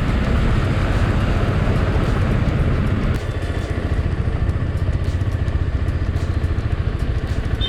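KTM 250 Adventure single-cylinder motorcycle being ridden, its engine running under a steady low rumble of road and wind noise. The rumble eases a little about three seconds in.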